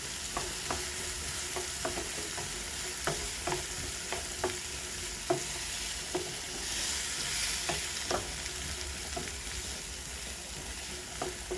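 Chopped vegetables sizzling in hot oil in a frying pan while a spoon stirs them, tapping and scraping against the pan at irregular intervals. The sizzle swells briefly about halfway through.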